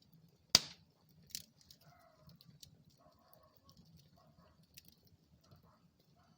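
Wood fire burning in a fireplace, crackling steadily over a low rumble of flame, with one sharp loud pop about half a second in and a smaller pop just after.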